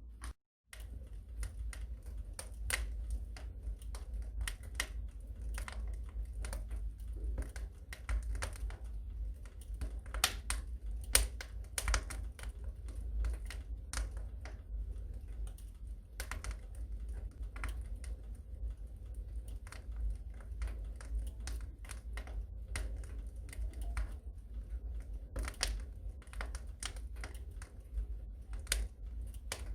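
Wood fire crackling in a fireplace: irregular pops and snaps over a steady low rumble, with a brief cut to silence about half a second in.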